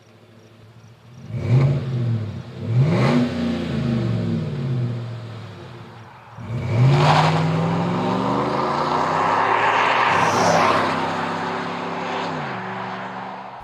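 Chevrolet Silverado/GMC Sierra 1500 5.3-liter V8 running through a Flowmaster Force II cat-back exhaust with a Super 50 muffler: idling quietly, then two quick revs about one and three seconds in, then revved up and held for several seconds before settling back toward idle near the end.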